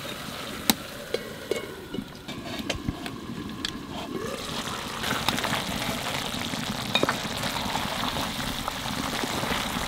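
Chicken pieces with tomatoes sizzling in ghee in an aluminium pot, with a few metal clinks of the lid and spatula. The sizzle grows louder about four seconds in, when the pot is uncovered and the meat stirred.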